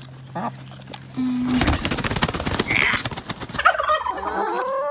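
Tom turkey gobbling: a loud, rapid rattling call starting about a second in and lasting a couple of seconds, followed near the end by a drawn-out, rising call from a bird.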